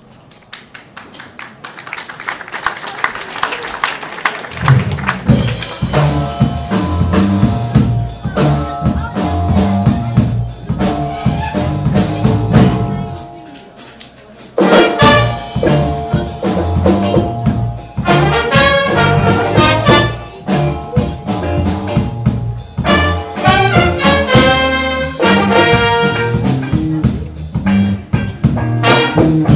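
A live band playing an upbeat jazz-funk tune with horns such as trumpet and trombone; it starts softly, the full rhythm section comes in about four and a half seconds in, and the band breaks off for a moment around the middle before picking up again.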